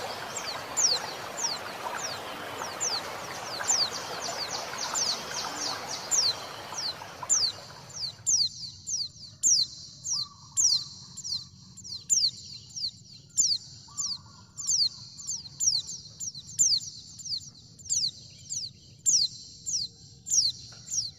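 Female white-eye (pleci) calling to males, a long run of short, high, falling chirps at about two a second. For the first eight seconds a steady rush of flowing water lies under the calls, then cuts off suddenly, leaving the chirps alone.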